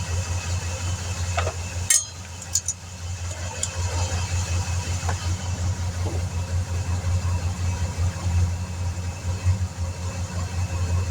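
An engine idling steadily with a low, pulsing drone. A sharp click sounds about two seconds in, with a few fainter ticks after it.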